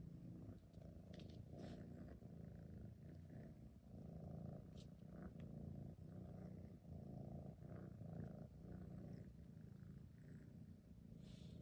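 Domestic cat purring, a faint low rumble that swells and eases every second or so, with a few soft clicks.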